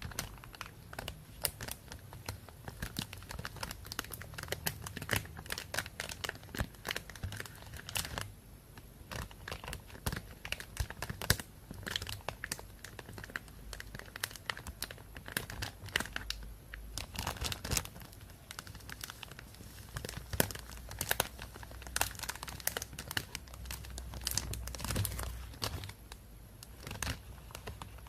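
Plastic bag crinkling and rustling, with a dense, irregular run of sharp crackles.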